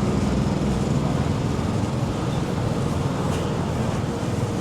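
Street traffic in Manhattan: a steady low rumble of vehicle engines and road noise.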